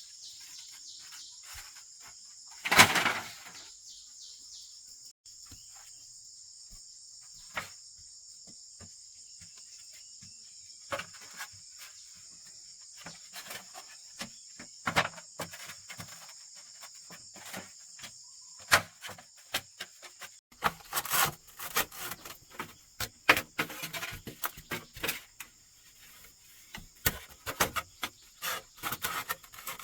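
Insects chirring steadily in a high, even drone, with scattered knocks and rustles of handwork throughout: a loud one about three seconds in, and many more close together in the last third, as the insect drone fades.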